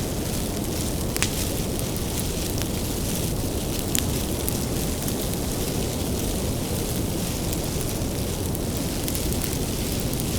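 Wood bonfire burning with a steady low rumble of flame, broken by occasional sharp crackles and pops from the firewood.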